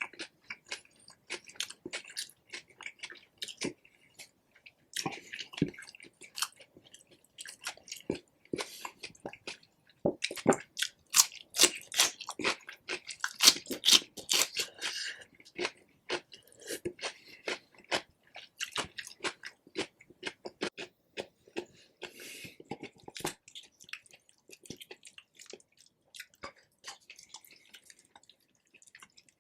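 Close-miked chewing and biting of rotisserie chicken: a steady run of wet, crunchy mouth clicks, busiest and loudest around the middle.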